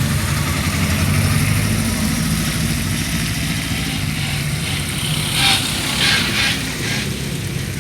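Rally car engine idling steadily, a low even rumble, with a few brief louder bursts of higher-pitched noise about five to seven seconds in.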